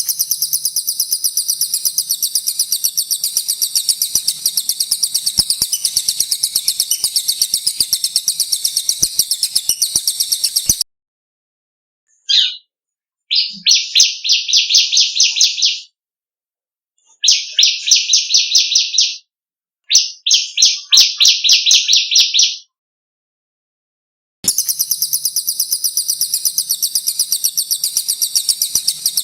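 Recorded songbird song from the cililin and the ciblek (bar-winged prinia): a long, very high, rapid trill cut off abruptly, then three shorter, slightly lower rapid rattling phrases with silent gaps, and the high trill again near the end.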